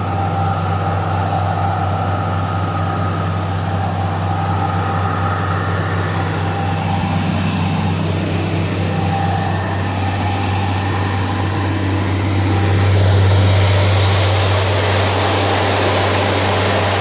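Heavy farm machine engine running steadily with a low hum. About twelve seconds in, a rushing hiss swells and the sound gets a little louder, then holds.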